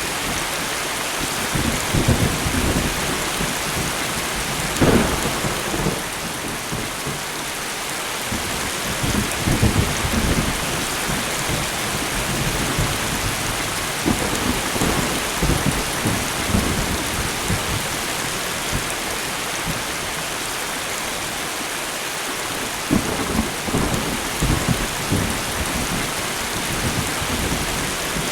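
Steady light rain falling, with thunder rumbling and crackling low underneath at intervals, loudest about five seconds in and again near the end.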